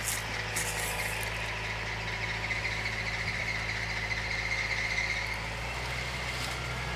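Tractor engine running steadily, with a steady high-pitched whine or squeal over it that is loudest around the middle.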